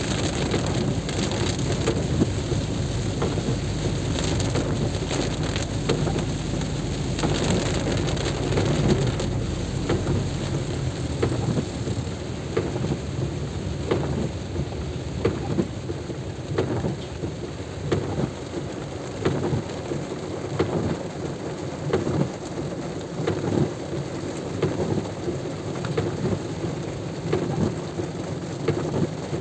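Heavy rain, with many close sharp drop hits throughout. A deep rumble underlies the first ten seconds or so, then drops away.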